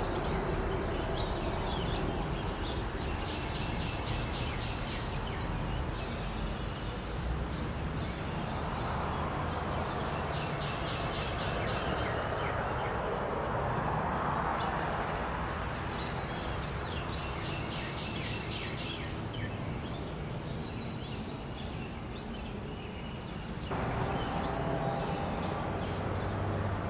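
Outdoor daytime ambience: a steady high-pitched insect drone over a broad background hiss, with faint distant bird trills now and then.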